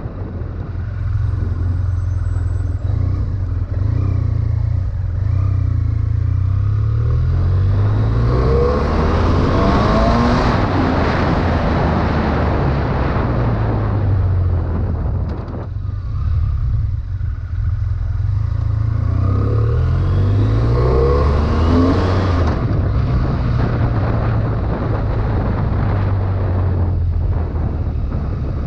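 2011 BMW F800ST's parallel-twin engine running on the move, revs rising and falling as it pulls through the gears. A rushing noise swells twice, about a third of the way in and again past two-thirds.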